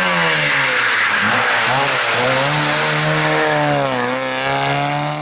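Racing car engine running hard under load. Its pitch dips briefly and climbs again several times, as the driver lifts and gets back on the throttle.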